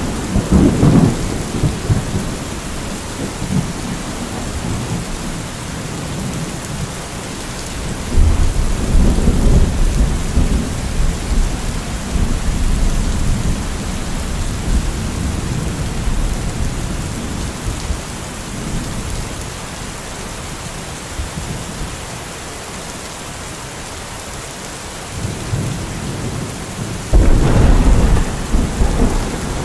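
Steady rain falling, with thunder rumbling three times: at the start, for several seconds from about eight seconds in, and again near the end.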